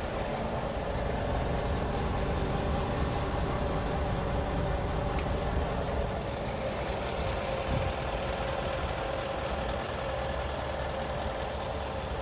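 Scania G440 truck's diesel engine idling steadily.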